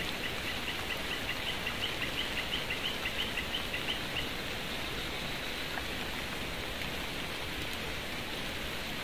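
Steady rain falling, with a bird calling a quick series of short high notes that stops about four seconds in.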